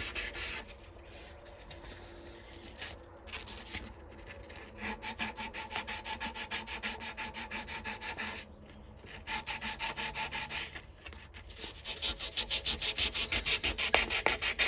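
Knife blade being hand-sanded with 400-grit sandpaper: quick back-and-forth rubbing strokes, about four or five a second, in spells with short pauses between them.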